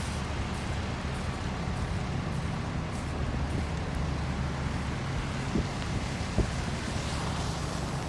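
Wind buffeting the microphone outdoors in a snowstorm, a steady low rumble with street noise under it, and two brief knocks about five and a half and six and a half seconds in.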